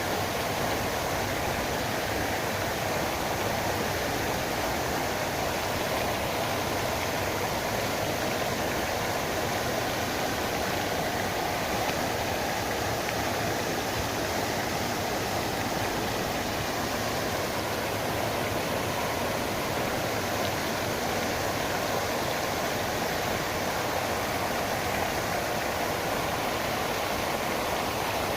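Falling water of a park fountain rushing steadily, a constant roar with no pauses.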